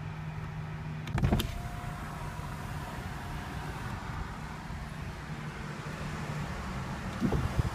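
Steady low hum inside a car cabin, with a sharp knock about a second in and another near the end.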